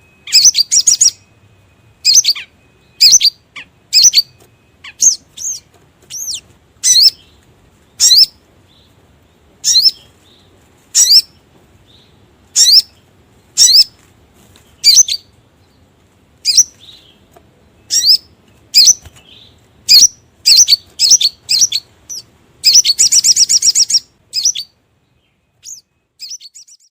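Crimson sunbird (sogon) lure call: sharp, high chirps repeated about once a second, some in quick clusters, with a fast rattling trill lasting about a second and a half near the end.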